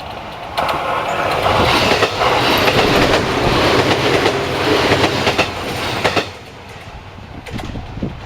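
Train passing close by, a loud rush of wheel-on-rail noise that starts abruptly about half a second in and drops away suddenly about six seconds in, leaving a quieter rumble with a few sharp clicks.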